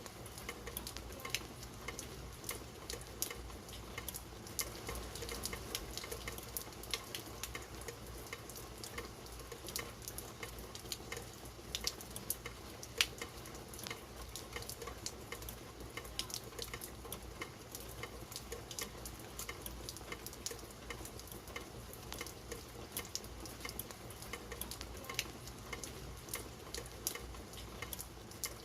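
Steady rain falling, a dense patter of drops with many sharp, separate drop hits standing out.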